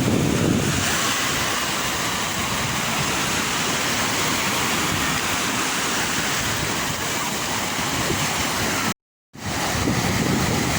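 Sea waves breaking and washing in, a steady rushing hiss. The sound cuts out to silence for a moment about nine seconds in.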